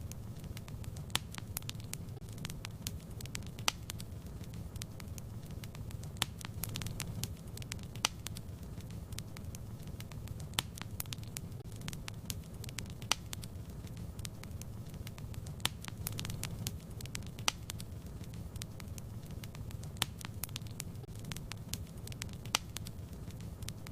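Wood fire crackling in a fireplace: a low steady rumble of the flames with frequent irregular sharp pops and snaps, a few louder than the rest.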